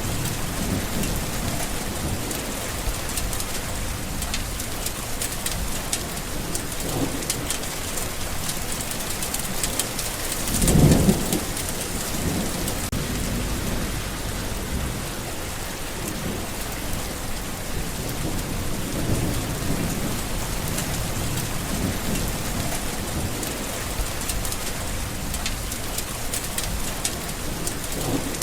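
Steady rain falling, with fine patter of drops over a low rumble, and a louder roll of distant thunder about eleven seconds in.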